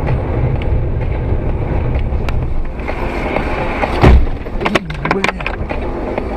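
Car driving, with steady road and engine noise. About four seconds in comes one sudden loud bang, followed by a few short clatters.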